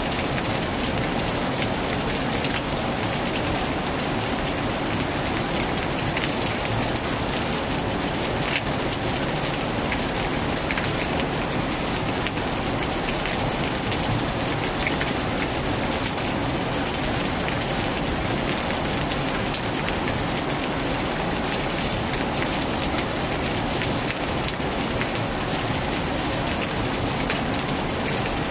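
Heavy rain falling steadily on a tin roof, a dense even hiss with scattered sharper drop ticks.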